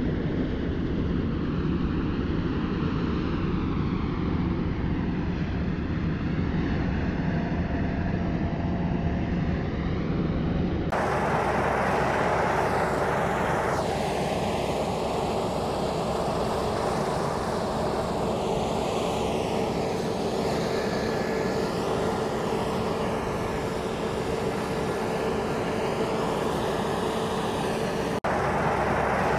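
Combine harvester at work, a steady machine drone with a few faint steady whines. The sound changes abruptly about a third of the way in and again near the end.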